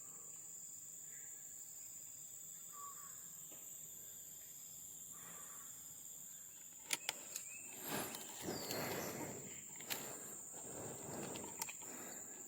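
Insects drone steadily at a high pitch, with a few faint short calls in the first half. Clicks and bursts of rustling come in the second half.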